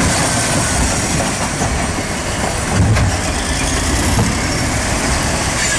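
Heavy machinery running loud and noisy, with a steady rattle and a few sharp clanks.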